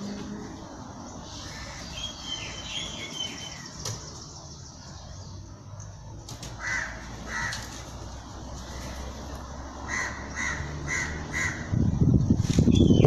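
A bird calling in short repeated notes: a pair about six and a half seconds in, then a quick run of about five around ten seconds in. A loud, noisy low rumble starts near the end.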